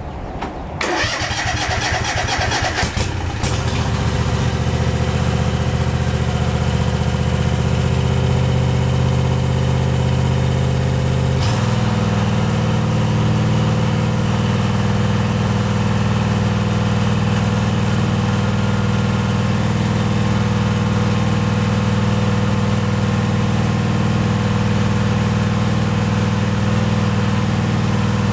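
Kawasaki FR730V V-twin engine on a Husqvarna YTH24V42LS riding mower cranked by the starter for about two seconds, catching and settling into a steady run, then stepping up to a higher engine speed about a third of the way in. This is the first start after a fresh oil change and new oil and fuel filters.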